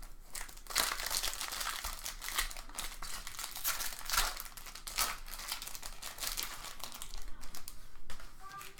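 Trading card pack wrapper crinkling, with irregular crackles as the pack and cards are handled and opened.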